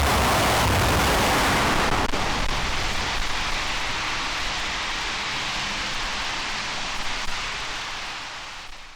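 RS-25 liquid-fuelled rocket engine roaring on the test stand, a dense, even rushing noise; about two seconds in it drops and loses its hiss, then fades out to silence near the end.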